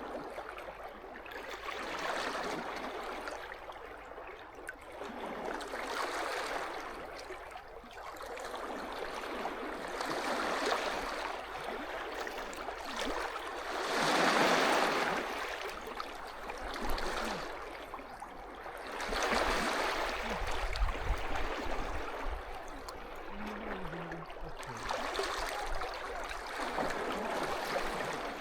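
Small sea waves washing in and drawing back on the shore, the water rising and falling every few seconds, with the loudest wash about halfway through.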